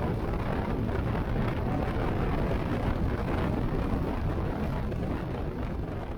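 Wind buffeting the microphone: a steady, loud rumbling rush that starts to fade near the end.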